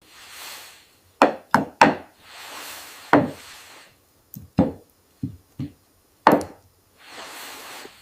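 A series of about nine wooden knocks or chops in uneven clusters, with soft swells of noise between them.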